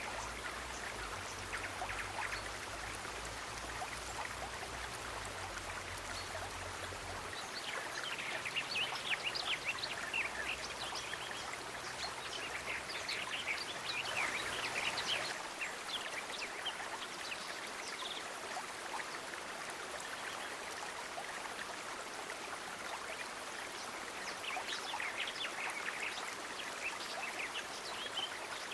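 Stream water flowing steadily, with bursts of bubbling and splashing that swell about eight seconds in and again near the end.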